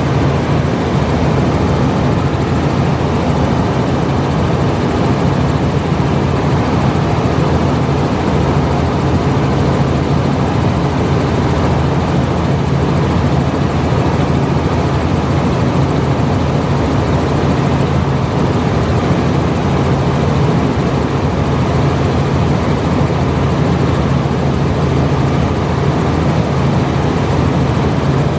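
Steady, loud drone of a running engine, a constant low hum over even noise that does not change.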